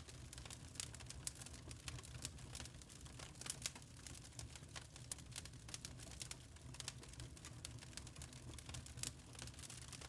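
Charcoal fire burning with many small irregular crackles and pops over a steady low rumble.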